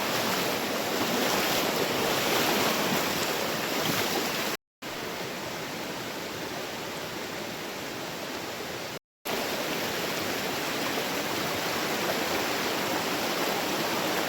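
Fast-flowing river water rushing, a steady hiss. It cuts out for an instant twice, and the middle stretch between the cuts is a little quieter.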